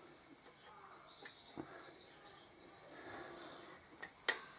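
Faint bird chirps in the background, with a few light clicks of hands and metal at the motorcycle's exhaust and one sharper click near the end.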